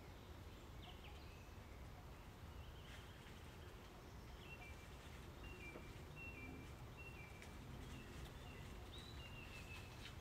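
Faint outdoor background noise with a low steady rumble, and a small bird calling a run of short, high chirps, about two a second, from about four seconds in until near the end.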